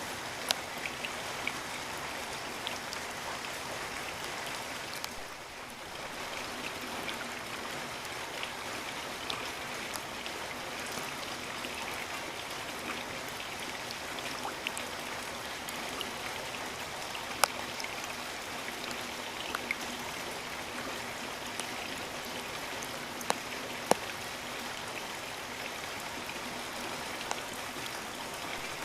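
Steady rain falling, an even hiss with scattered sharp taps of single drops landing close by. It eases briefly about five seconds in.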